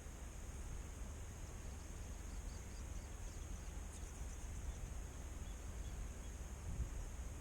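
Faint outdoor ambience: a steady, high-pitched drone of insects, with low wind rumble on the microphone.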